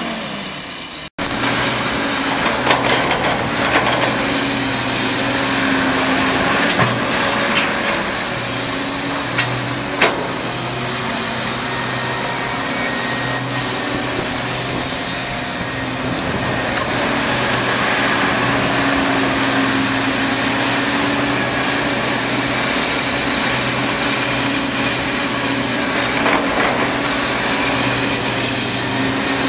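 Backhoe's diesel engine running under work, its pitch rising and dipping, with a few sharp knocks around ten seconds in. The sound cuts out for an instant about a second in.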